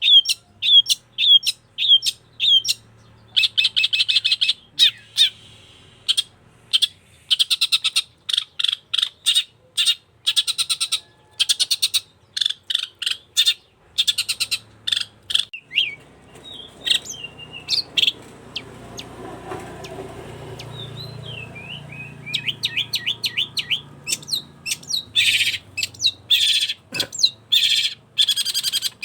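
Long-tailed shrike (cendet) singing hard: fast runs of sharp, repeated chirps and trills. The song thins out for a few seconds in the middle over a low background noise, then picks up again.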